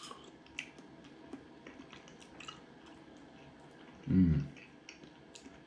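A person chewing a mouthful of steak pie, with small wet mouth clicks. About four seconds in comes a short hum.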